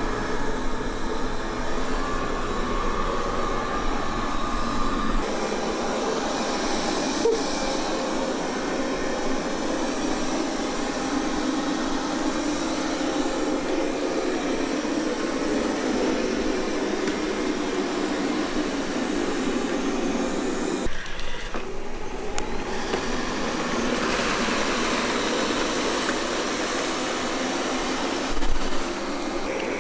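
Qihoo 360 S9 robot vacuum cleaner running: a steady motor-and-brush hum that changes abruptly a few times.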